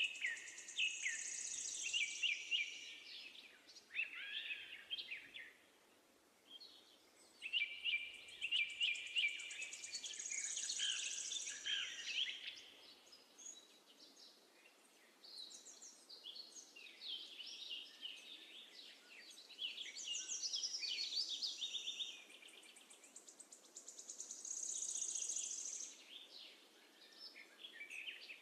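Birds chirping and singing in high, quick trilled phrases that come in bursts with short lulls between them.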